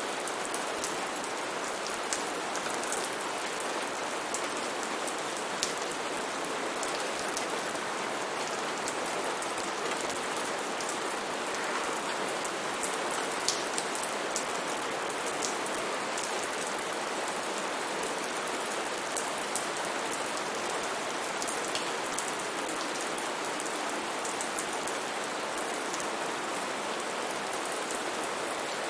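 Steady rain falling in a rainforest, a constant hiss with many individual drops ticking sharply on surfaces close by.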